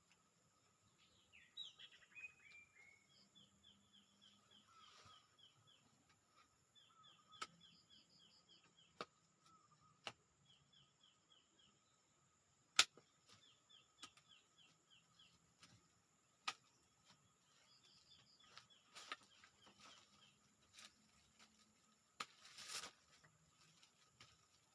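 Faint forest ambience: a bird repeatedly gives short, rapid series of chirps, over a steady high insect drone. A few sharp clicks or knocks sound now and then, the loudest about halfway through.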